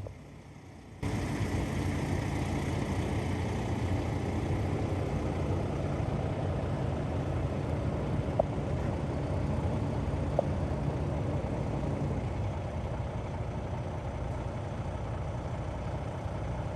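A large engine idling steadily with a low hum, starting abruptly about a second in and easing off slightly near the end.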